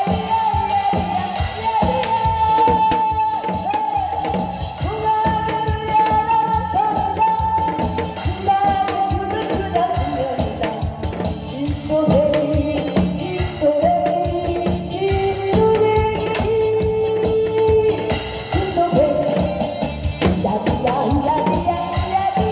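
A woman singing a Korean gugak-style song, with long held notes that bend and slide in pitch, over an amplified band backing with a steady drum-kit beat.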